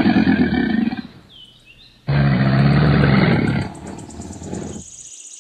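Crocodile calling with two loud, deep growls: the first ends about a second in, and the second starts sharply about two seconds in and lasts about a second and a half, trailing off into fainter noise.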